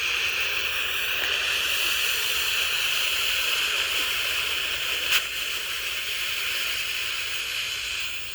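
Green pull-string smoke bomb hissing steadily as it burns and pours out smoke, with one sharp click about five seconds in.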